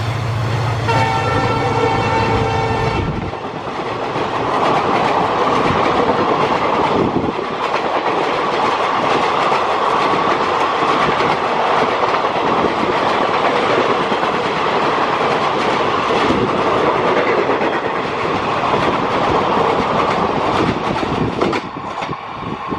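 A diesel-hauled passenger express passes at speed. The locomotive's horn sounds for about two seconds near the start over the low rumble of the engine. Then the coaches rush past with steady wheel-on-rail noise, which eases slightly near the end as the last coach draws away.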